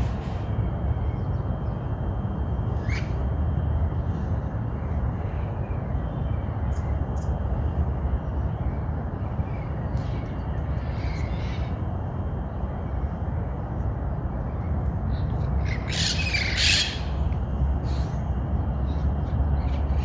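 Parrots squawking: a few short calls, then one loud harsh burst of squawks about 16 seconds in, over a steady low rumble.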